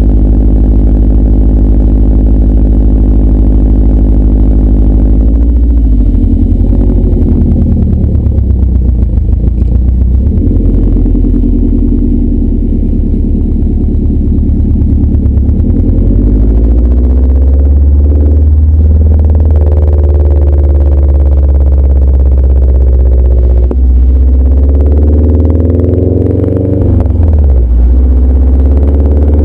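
2011 Subaru WRX's turbocharged flat-four engine running through a CNT cat-back exhaust. It holds a steady note for the first few seconds, then rises and falls in pitch several times as the engine is revved and eased off.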